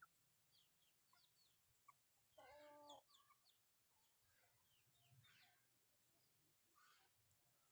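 Chickens calling faintly: short high chirps scattered throughout, and one louder held cluck about two and a half seconds in, lasting about half a second.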